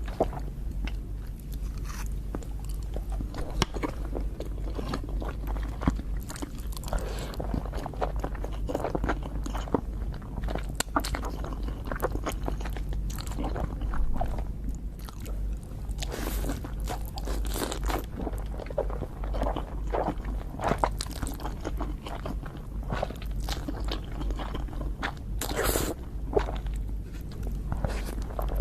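Close-miked eating: a person biting and chewing curry noodles with cheese, with irregular wet, crunchy clicks and crackles of chewing throughout over a faint steady low hum.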